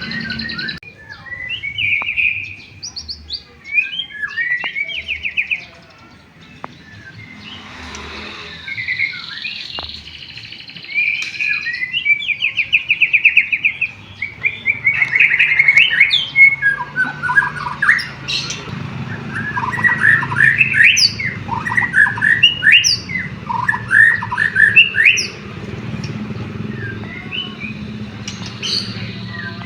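White-rumped shama (murai batu) singing a fast, varied song of whistles, sweeping notes and rapid trills, its repertoire filled with canary-like phrases. A low steady hum lies underneath in the second half.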